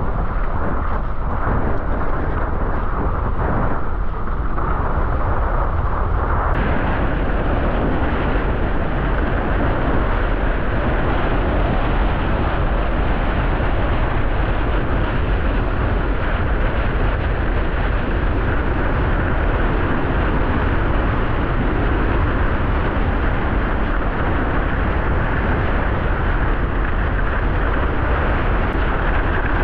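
Wind roaring over the microphone, with water rushing under a windsurf board sailing fast in strong, gusty wind. The noise grows fuller about six seconds in and then holds steady.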